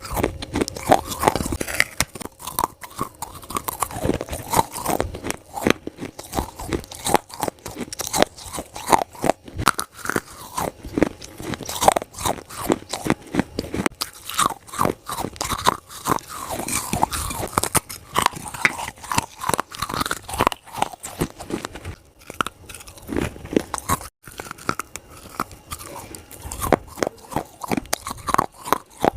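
Plates of wet clay being bitten and chewed close to the microphone: a dense, continuous run of sharp crunches, several a second.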